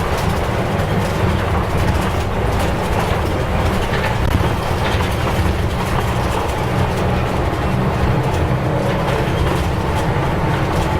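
Nissan Diesel U-UA440LSN city bus under way, heard from inside the cabin: a steady diesel engine drone and road rumble.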